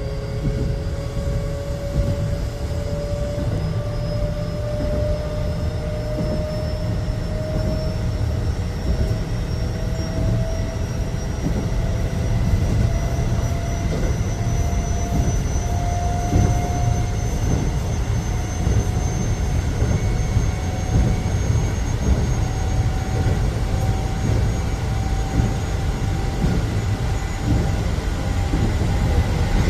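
Electric commuter train running, heard from inside the car: the traction motor whine rises slowly and steadily in pitch as the train gathers speed, over the steady rumble of the wheels on the rails.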